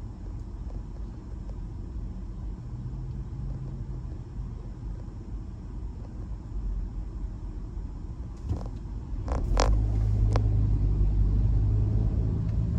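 Car driving, heard from inside the cabin: a steady low engine and road rumble that grows clearly louder about three quarters of the way through, with a few short sharp clicks just before.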